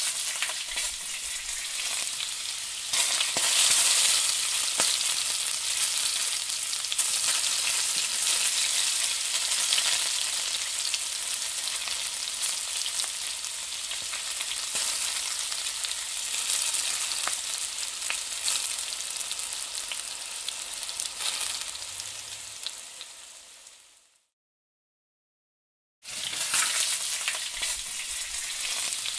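Chopped onions and green chillies sizzling steadily in butter in a nonstick frying pan, stirred with a wooden spatula at the start. The sizzle fades away about 23 seconds in, cuts to silence for two seconds, then comes back.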